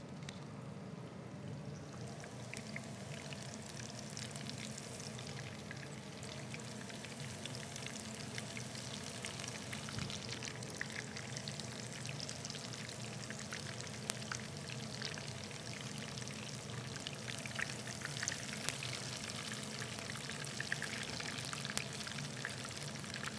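Minced-meat and mint patties frying in hot oil in a frying pan: a steady sizzle full of small crackles and pops, growing a little louder and busier in the second half.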